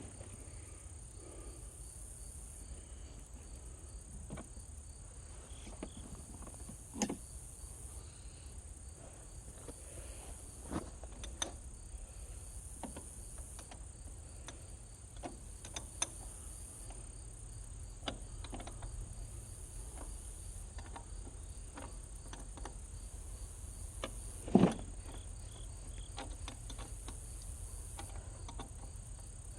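Crickets and other insects chirping steadily, with scattered short clicks and knocks from hand tools working on a tractor battery and one louder thump near the end.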